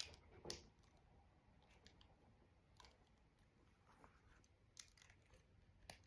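Faint, scattered clicks and light rattles of plastic Lego pieces being handled and pressed together.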